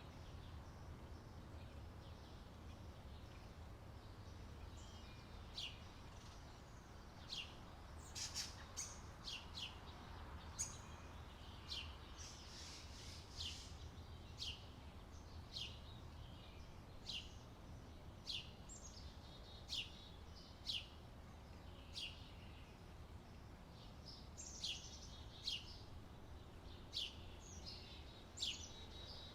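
Birds chirping: short, high calls that sweep downward, repeated about once a second, over a faint steady low background rumble.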